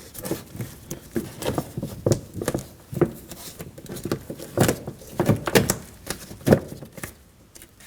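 Plastic door vapor barrier being peeled off the sticky sealant on the inside of a front door, in a run of irregular crackling, tearing pulls.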